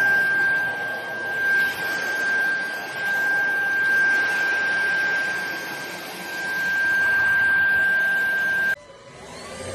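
Cordless stick vacuum cleaner running, a steady rushing noise with a high, steady whine. It cuts off suddenly near the end.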